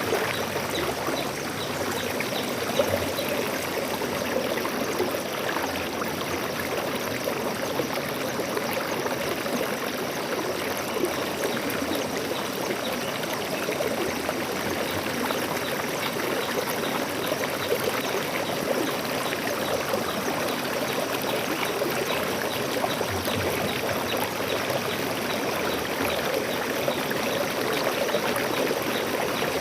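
Stream water flowing and splashing steadily over rocks.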